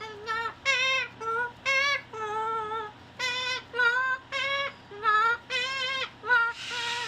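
A bird calling over and over in short, pitched notes, about two a second, with a brief hiss near the end.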